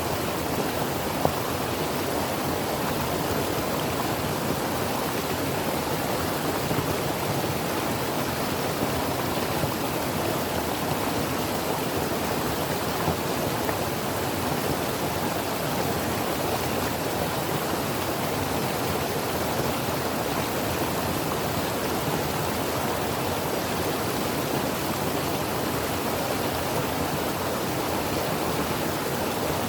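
Creek flowing: a steady, even rush of water, with one brief sharp tick about a second in.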